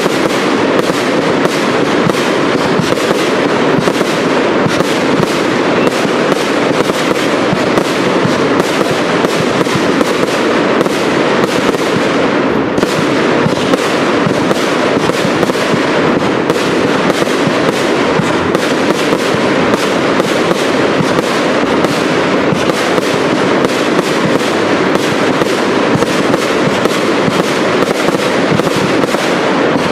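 Fireworks cakes firing a dense, unbroken barrage of shots and bursting shells, several a second.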